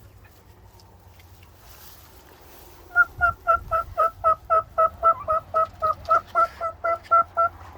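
A turkey calls a steady run of about eighteen short, clear notes, roughly four a second. The calling starts about three seconds in and goes on to near the end.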